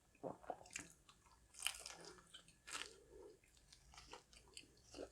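Faint close-up chewing of a crispy fried flounder fish sandwich: irregular small crunches of the breaded patty and soft mouth sounds.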